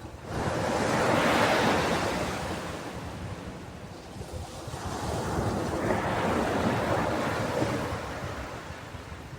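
Ocean waves washing onto a beach: two waves, the first rising sharply just after the start and the second swelling more gently around the middle, each easing off into a hiss.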